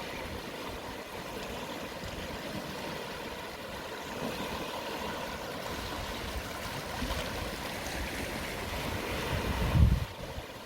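Gentle sea waves washing onto a shore at low tide, a steady rushing wash that swells toward a louder, deeper rush near the end before falling away.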